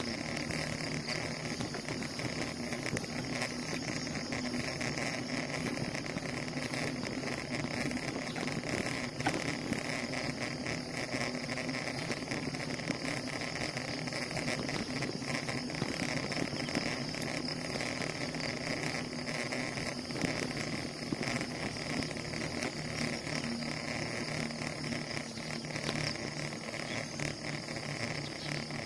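Steady riding noise of a bicycle on the move: tyre and wind noise running evenly, without a break.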